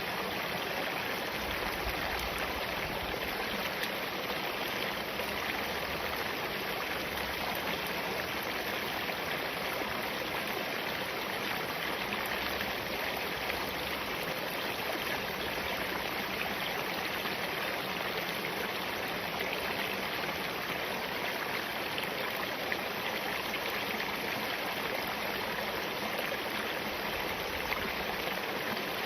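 Spring-fed stream water running over and between rocks: a steady, even rush of flowing water.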